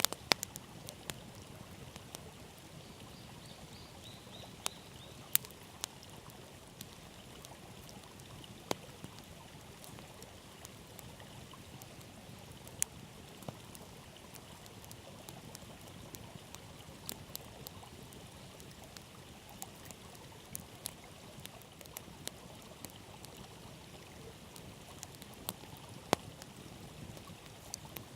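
Wood campfire crackling, with scattered sharp pops, a few much louder than the rest, over the steady rush of a flowing river.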